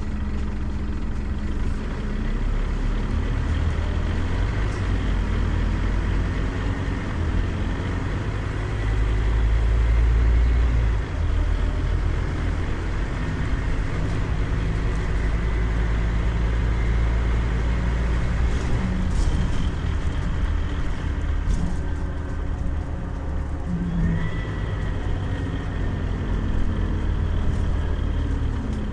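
Scania CN270UB city bus heard from on board, its diesel engine running under way with a steady low rumble whose pitch shifts as it changes speed. The sound swells for a couple of seconds near the middle and then drops off suddenly.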